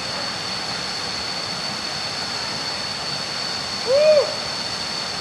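Waterfall running as a steady rush of water, with a steady high tone held over it. About four seconds in comes one short call that rises and falls in pitch.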